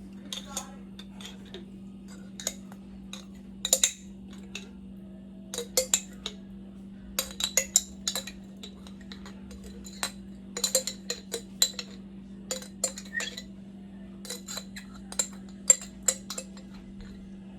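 A metal utensil clinking and scraping against a container again and again in irregular clusters, as wet jerk seasoning is scooped out into a bowl of chicken.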